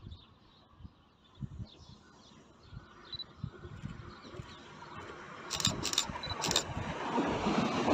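Renfe electric passenger train approaching along the line, its rumble of wheels on rails rising steadily in level through the second half. Birds chirp faintly in the quieter first part, and three short, sharp high-pitched hisses come about two-thirds of the way through.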